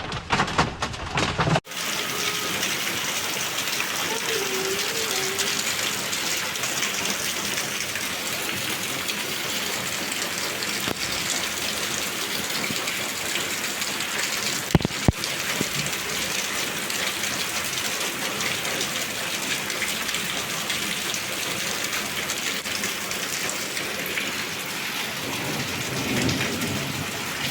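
Heavy rain pouring steadily, starting abruptly about two seconds in, with two sharp knocks about halfway through.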